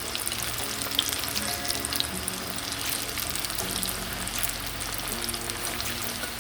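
Flour-coated chicken nuggets sizzling and crackling steadily as they fry in a pan of hot oil, with soft background music underneath.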